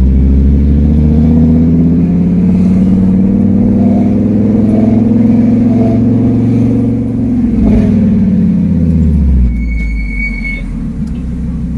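Fiat Marea HLX's five-cylinder engine with no exhaust, heard from inside the car, running loud as it pulls up through the revs, then easing off between about eight and nine and a half seconds in. A brief high squeal, about a second long, comes near the end.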